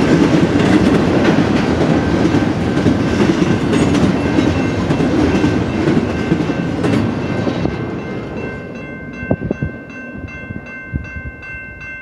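Fast BNSF double-stack intermodal train rolling past: a steady wheel rumble and clatter of the well cars, fading about eight seconds in as the last car clears. That leaves the grade-crossing bell ringing in a rapid, even rhythm.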